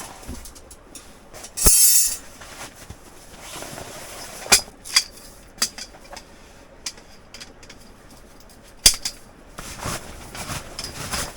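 Handling noises: a short, loud scraping hiss about two seconds in, then a few scattered sharp clicks and knocks.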